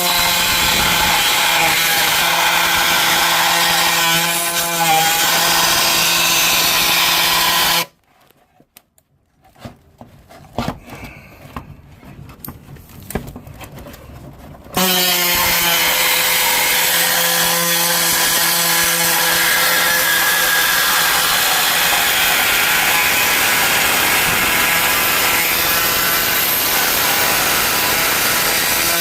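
A power tool cutting into a sheet-metal exhaust heat shield, running with a steady motor whine and a rasping cutting noise. It stops after about eight seconds, leaving only a few light clicks and handling sounds, and starts cutting again about fifteen seconds in.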